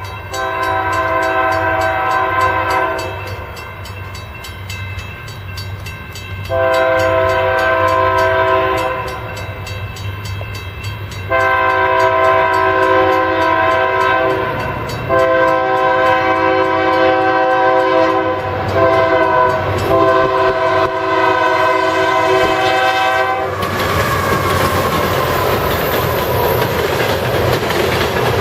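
Union Pacific freight locomotive's multi-tone air horn sounding four blasts, the last held about eight seconds, over the low steady running of its diesel engine. After the horn stops, the train rumbles past with loud wheel-on-rail noise.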